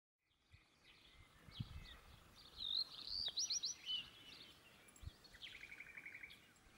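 Faint birdsong: short chirps and warbled phrases, then a rapid trill of about ten notes a second near the end, over a low background hiss. Two soft low thumps, about a second and a half in and about five seconds in.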